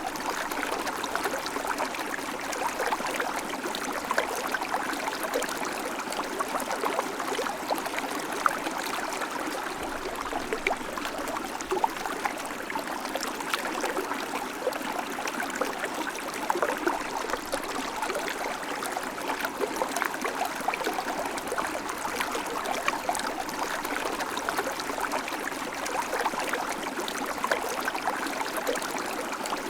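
River water flowing steadily, an even rushing with small bubbling and splashing ticks throughout.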